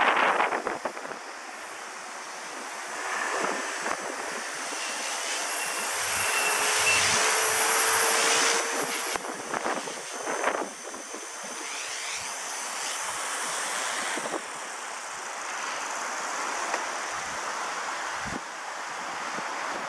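Small electric RC helicopter's motor and rotor whine, high-pitched and wavering slightly in pitch, then cutting out about two-thirds of the way in. Gusty wind buffets the microphone throughout.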